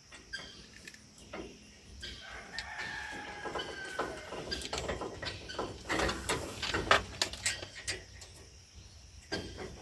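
A rooster crowing, one long call about three seconds in. It is mixed with sharp clicks and knocks of metal gazebo brackets and screws being fitted, loudest a few seconds later.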